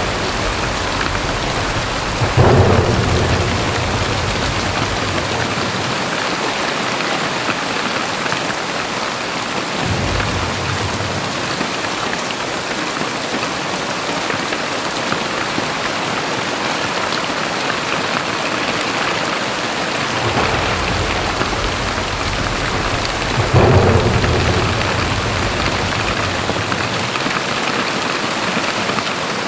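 Very heavy rain pouring steadily. Two sudden low rumbles of thunder break through it, one a couple of seconds in and one near the end, each fading over a few seconds.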